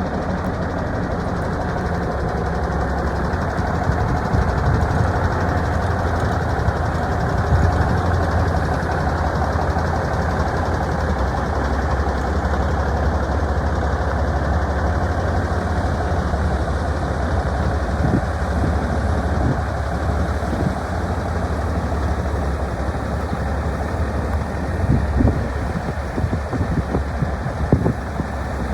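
Diesel engine of a 1986 International 9370 truck tractor idling steadily, with a few short knocks in the last few seconds.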